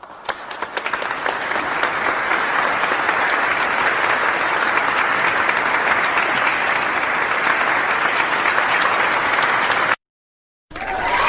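Crowd applause: scattered claps quickly swell into full, steady applause that cuts off abruptly about ten seconds in. After a brief silence another sound begins near the end.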